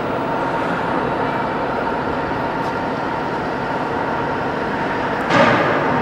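Steady, even mechanical noise with a faint hum, briefly louder about five seconds in.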